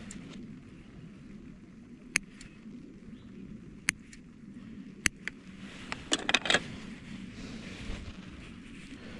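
A few sharp, isolated clicks or taps, then a quick rattling cluster of clicks about six seconds in, over a steady low background hum.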